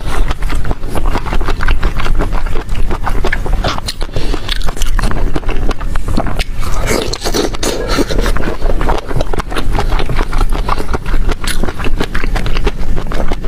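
Close-miked eating sounds: a person biting and chewing food, with a dense run of crisp, irregular clicks.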